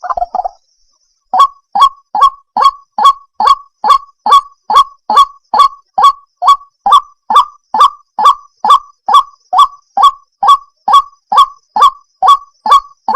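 White-breasted waterhen (ruak-ruak) calling: a steady, unbroken run of short, loud, identical notes, a little over two a second, starting about a second in.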